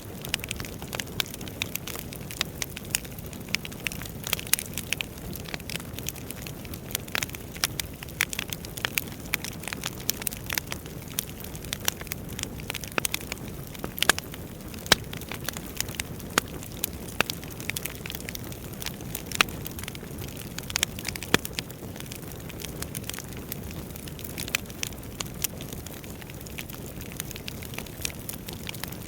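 Wood fire burning in a fireplace: a steady low rush of flames with frequent irregular crackles and sharp pops from the burning logs.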